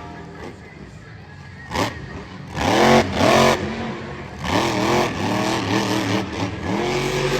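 Monster truck engine revving hard in repeated blips, its pitch rising and falling several times from about two and a half seconds in, after a quieter stretch.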